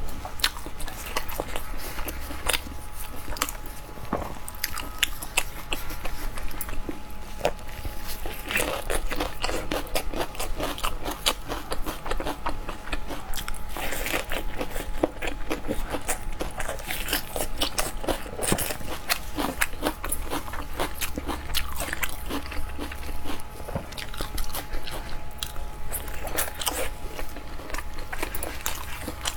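Close-miked eating of seafood: steady biting and chewing with crunches and many small wet clicks, louder in a few spells.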